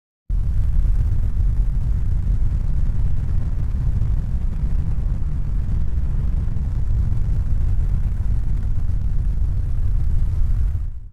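Steady low rumbling noise that starts abruptly just after a moment of silence and fades out at the end.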